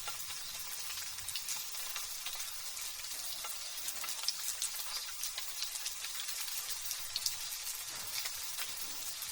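Light drizzle: a steady hiss with many small raindrop ticks scattered through it. No thunder.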